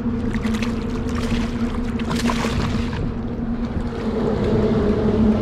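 A motorboat engine droning steadily nearby, with water splashing and rushing over the first three seconds.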